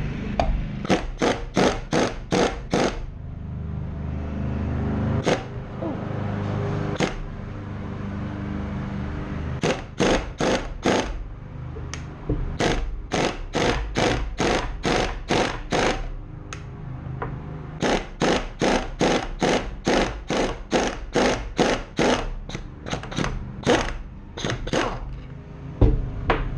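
Hammer blows on a wrench to break loose a stuck nut on a Milwaukee router's armature shaft, struck in runs of quick metallic hits about three or four a second with pauses between, over a steady low hum.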